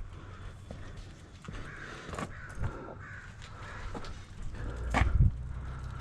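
Crows cawing several times, with a few clicks and a louder low knock about five seconds in.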